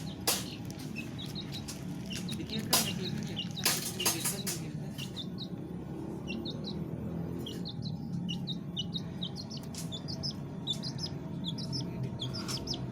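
Small birds chirping: many short, high chirps scattered throughout, over a steady low hum, with a few sharp clicks in the first four seconds.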